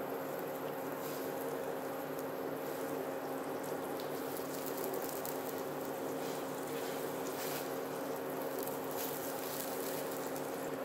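A paratha frying in oil on a tawa, with a light sizzle and scattered faint crackles over the steady buzzing hum of an induction cooktop.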